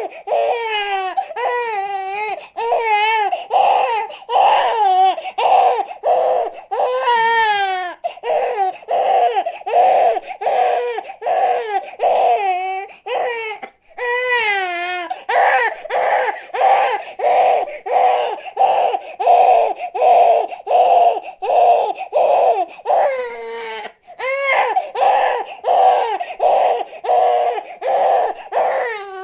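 Newborn baby crying: long wavering wails at first, then quick repeated short cries at about two a second, with brief pauses for breath.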